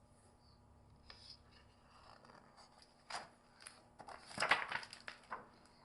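Faint paper rustling and handling, as of a picture book's page being turned, in a few short bursts in the second half after a quiet start.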